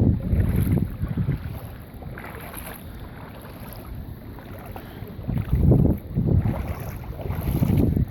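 Wind buffeting the microphone in irregular gusts, a low rumble that swells twice, once at the start and more strongly in the second half.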